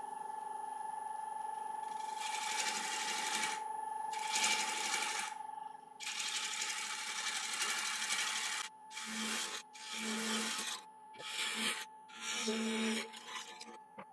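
Wood lathe running with a steady whine while a turning tool cuts the spinning laburnum bowl blank, taking down the rim. The tool makes a series of cutting passes of a second or two each, starting about two seconds in.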